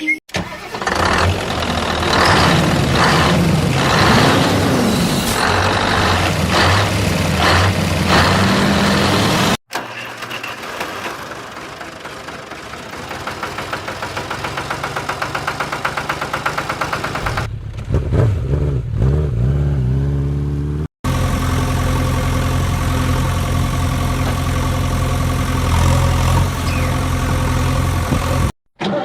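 Vehicle engine sounds in separate stretches, each cut off abruptly. First an engine running and revving, then one building up with a quickening beat, then a steady even idle.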